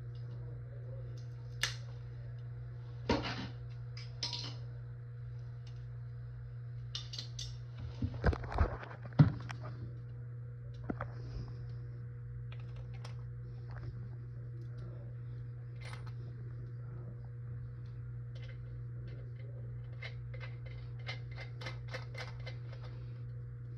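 Scattered light clicks, taps and knocks of small hard objects being handled, with a short cluster of louder knocks about eight seconds in and a quick run of light clicks near the end, over a steady low hum.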